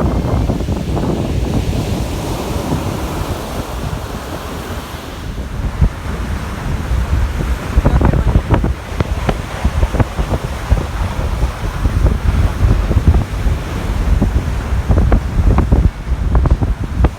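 Storm surf breaking and washing up the beach in hurricane-force wind, with heavy wind buffeting on the microphone that turns gustier from about eight seconds in.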